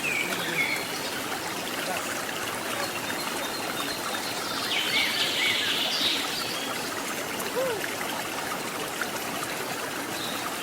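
Waterfall running light, its water splashing and trickling steadily over rocks, the flow low after a few days without rain. Birds chirp over it near the start and about five seconds in.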